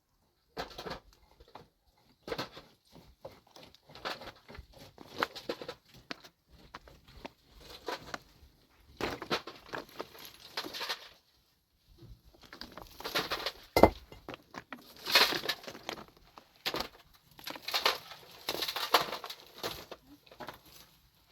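Irregular scraping, knocking and clinking of hard objects being handled, with one sharp knock about fourteen seconds in.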